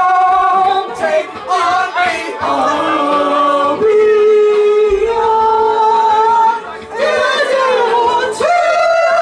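Karaoke singing: a voice holding a string of long, steady notes, sliding briefly between them, with a falling slide near the end before the last held note.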